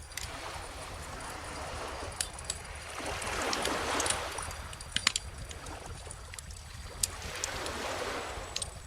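Wood fire crackling with scattered sharp pops, the loudest about five seconds in, over gentle ocean waves washing in, swelling and falling back twice.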